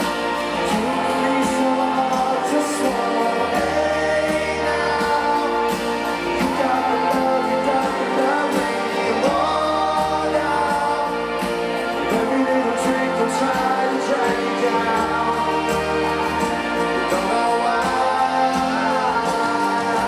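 Live rock band playing a song, with several voices singing together in a choir-like sound.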